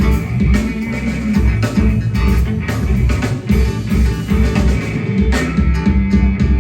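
Live rock band playing: electric guitar over a drum kit with a steady beat.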